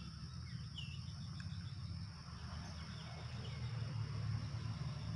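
Insects chirring in one steady, high-pitched drone over a low rumble, with a few faint short chirps.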